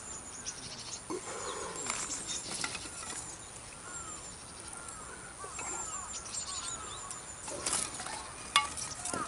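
Split firewood sticks knocking together now and then as they are laid into a crib stack, with birds calling in the background.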